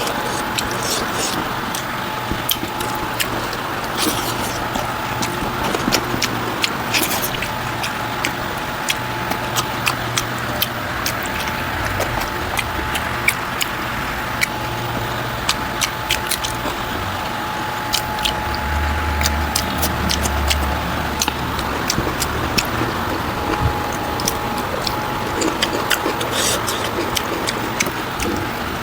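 Close-miked eating sounds: irregular wet mouth clicks and chewing, over a steady background hiss with a faint hum.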